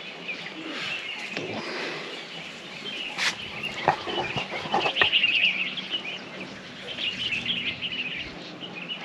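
Many small birds chirping together in a steady evening chorus, with a few sharp clicks around the middle.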